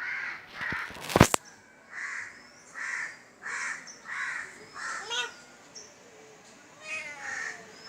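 A bird calling harshly over and over, about seven cawing calls in a steady series, with a single sharp knock about a second in and a few short higher calls mixed in.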